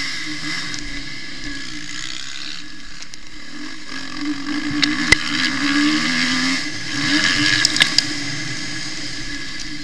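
Suzuki RM-Z 250 four-stroke single-cylinder motocross engine heard from on the bike, revving up and falling back again and again as it is ridden through the gears. A few sharp clicks cut in about halfway through and again later.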